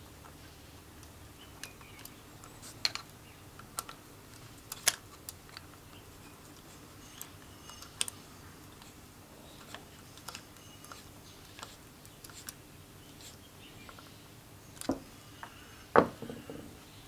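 Scattered light clicks and taps of small metal parts and hand tools being handled during small-engine assembly, with a sharper knock about 16 seconds in.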